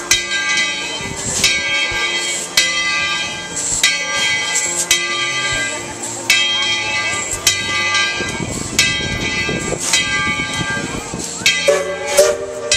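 Locomotive bell ringing steadily, one stroke a little more than once a second.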